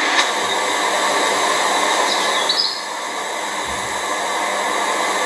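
A steady outdoor hiss, like running water or an insect chorus, with a short wavering whistled bird note about two seconds in.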